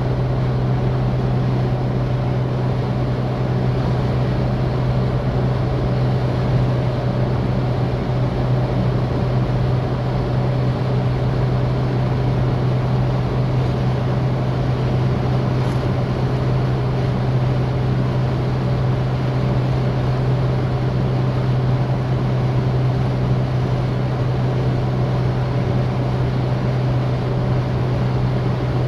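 Citroën DS's four-cylinder engine running at a steady cruise, holding one constant low drone with no change in pitch, over a steady rushing noise.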